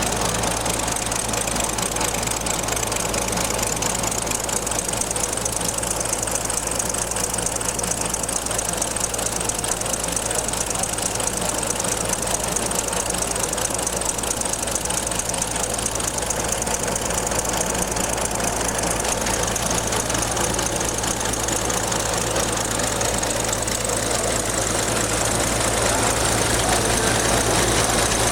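Small scale-model engine running steadily, with a fast, even mechanical clatter of rapid firing strokes.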